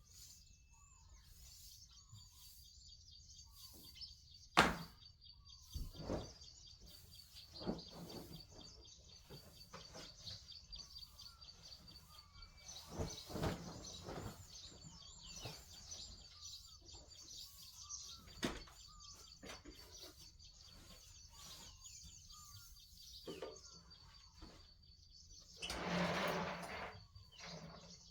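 Birds chirping steadily in the background, with a few scattered sharp knocks and a brief rough noisy burst near the end.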